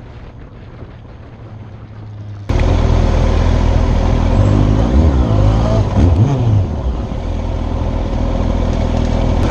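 Motorcycle engine on the move. A low steady hum for about two and a half seconds, then it cuts suddenly to a loud engine with rushing noise, the revs rising and falling a few times in the middle.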